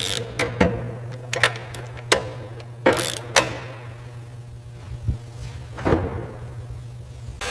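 Workshop handling sounds: about a dozen irregular sharp knocks and clicks of tools and parts being worked, over a steady low hum.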